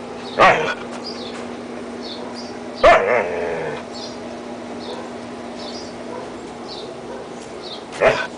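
Huskies barking: three short, sharp barks or yips spread out, with faint high squeaks and whimpers in between.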